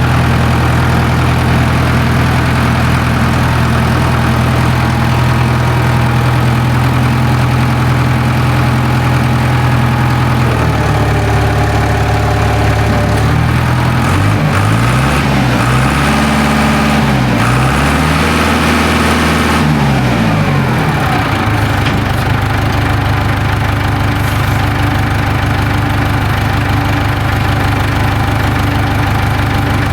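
International 270A backhoe's diesel engine running at idle. Its speed rises and falls several times from about ten to twenty seconds in, then it settles back to a steady idle.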